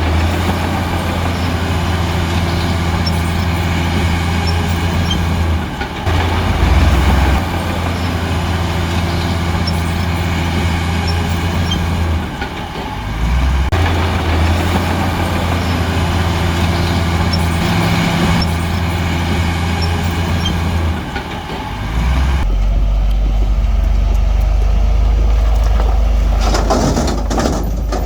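Heavy diesel engine of earthmoving machinery working under load, its low steady note dipping briefly every six to eight seconds and dropping to a deeper note about two-thirds of the way through. Near the end there is a short clatter of rock.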